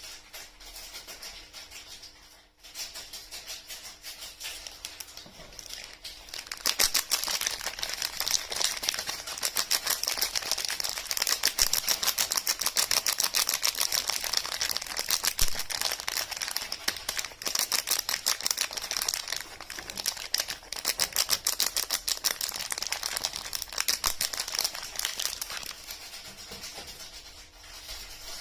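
Close-miked crisp, rapid crackling and clicking of soap and its packaging being handled, sparse at first, then dense and fast from about six seconds in before easing off near the end.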